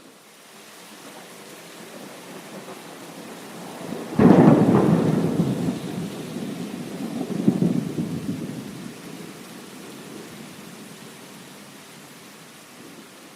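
Steady rain falling in a thunderstorm, with a sharp thunderclap about four seconds in. The thunder rolls on, swells again a few seconds later and dies away into the rain.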